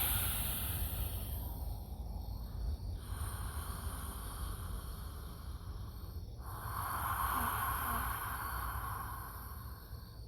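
A person breathing slowly and deeply, each long breath lasting a few seconds, over a steady high chirring of night insects.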